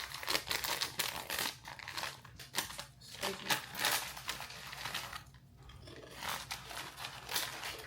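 A small bag crinkling as it is handled, in irregular crackles that let up briefly about five seconds in.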